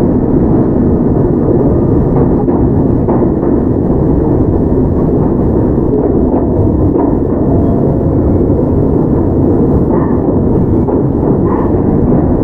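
Steady running noise of a Toyama Chihou Railway 17480-series electric train (ex-Tokyu 8090) under way, heard from inside the car: a constant low rumble of wheels on rail with a few faint clicks.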